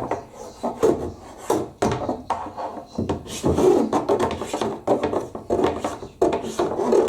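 Irregular scraping and rubbing with short knocks as caked lint is dragged and scraped by hand out of a condenser tumble dryer's vent.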